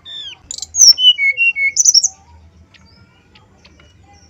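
Brown-chested jungle flycatcher singing one short, loud phrase of clear whistled notes, some sliding down in pitch, mixed with a few sharp, harsh high notes. The phrase lasts about two seconds.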